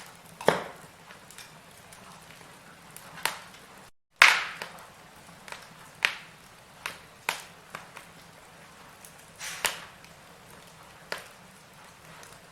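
Firewood burning in a fireplace, crackling with sharp pops every second or two over a faint hiss. The loudest pop comes about four seconds in, right after a brief dropout to silence.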